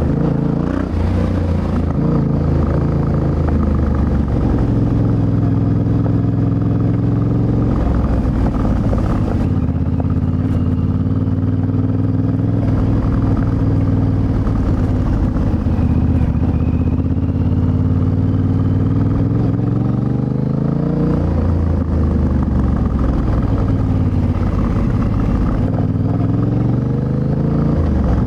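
Yamaha Ténéré 700's 689 cc CP2 parallel-twin engine running under way, its pitch dropping and climbing with throttle changes and gear shifts, with a long rising rev about two-thirds of the way through.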